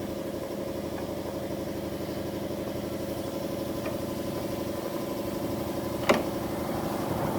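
An engine running steadily at idle, with a sharp knock about six seconds in.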